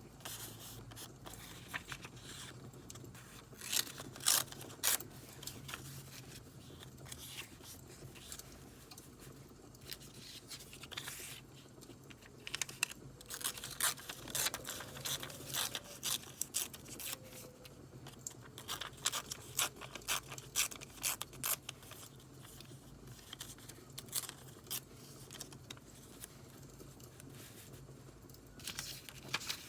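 Paper being worked by hand for a vintage journal: scraping, tearing and crinkling in short bursts, with clusters of sharp clicks, over a steady crackling-firewood background.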